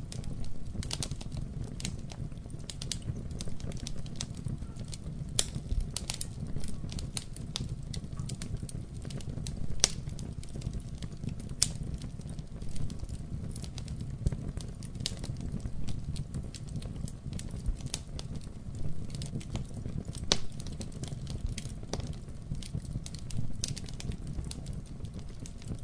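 Wood fire burning in a fireplace: a steady low rumble of flames with irregular sharp crackles and pops throughout, a couple of louder pops in the middle.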